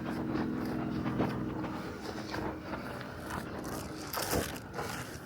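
Footsteps of people walking, short crunching steps at an easy pace, over a low steady hum that fades out about halfway through.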